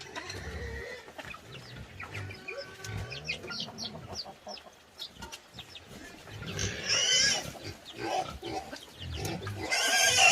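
Pigs squealing, with one long squeal about two-thirds of the way through and another starting near the end, and low grunting between.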